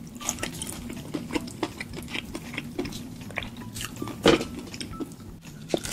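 Close-miked eating sounds of a saucy chicken dish: many quick wet clicks and smacks with small clinks of tableware, and one louder knock a little past four seconds in.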